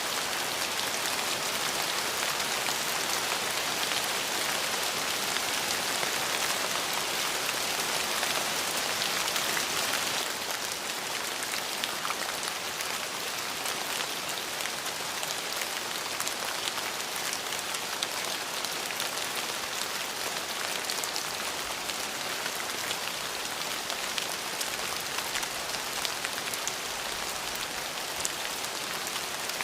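Steady rain falling, an even hiss with individual drops ticking through it; the hiss turns a little softer about ten seconds in.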